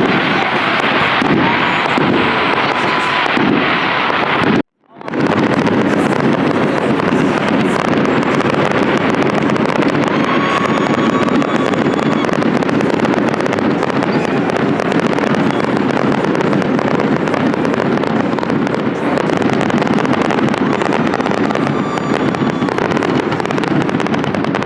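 Fireworks display going off: a dense, continuous crackle of many bursts and pops. The sound cuts out for a moment about five seconds in, then the crackling resumes.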